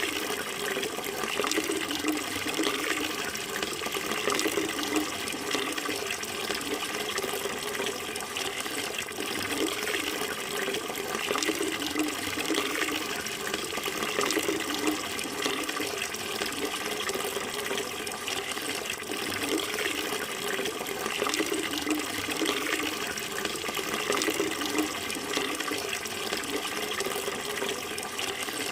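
Water running steadily in a continuous, unbroken splashing flow.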